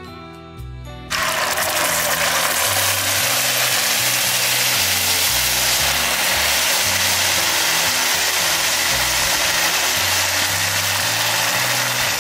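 Paste sizzling hard in hot oil in a frying pan on a camp stove, a loud steady hiss that starts suddenly about a second in. Background music's bass line continues underneath.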